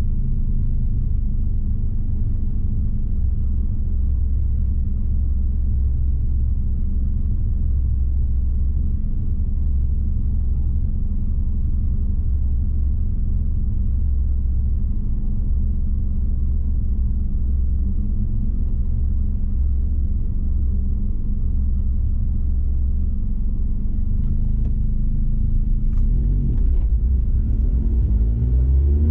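Car engine idling steadily with a low rumble while stopped. Near the end it picks up and revs as the car pulls away.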